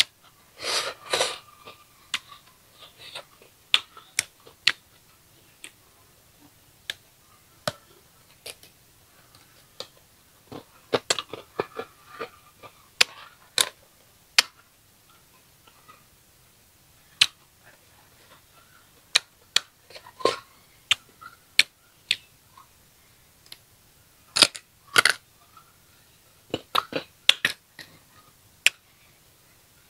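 Close-up crunching of raw green ambarella (June plum) coated in chili salt being bitten and chewed: crisp, irregular cracks and clicks, with louder bursts of bites about a second in, around the middle and again near the end.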